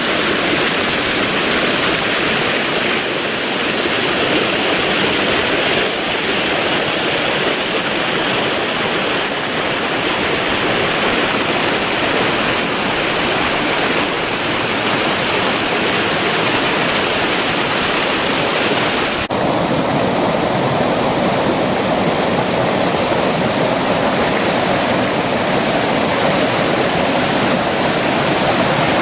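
Creek water flowing steadily. About two-thirds of the way in, the sound changes abruptly to a fuller, lower rush with less hiss.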